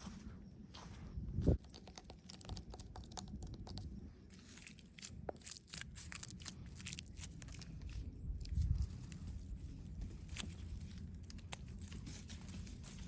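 Close-up crunching and scratching of dry plant material, an irregular run of crackles, with one heavier thump about a second and a half in.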